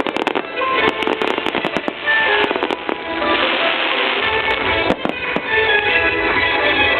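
Fireworks display: repeated sharp bangs and crackles of bursting shells over loud music played with the show.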